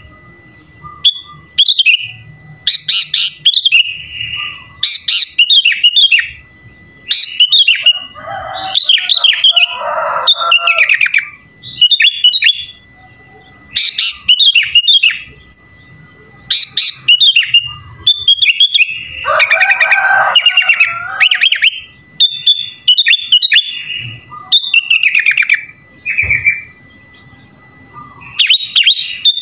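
Sooty-headed bulbul (kutilang) singing a varied song, with bursts of quick chirps and whistles every second or two and short pauses between them.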